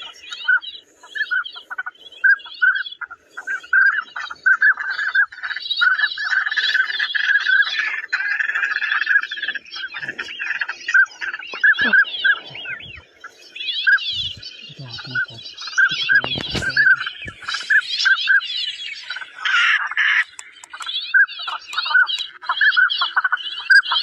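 A flock of birds calling continuously, with many short calls overlapping and a run of brief notes repeating several times a second.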